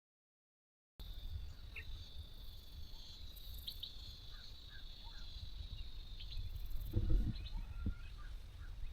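After a second of silence, countryside ambience: a steady high insect drone with scattered short bird chirps over a low wind rumble on the microphone. A couple of dull thumps come about seven seconds in.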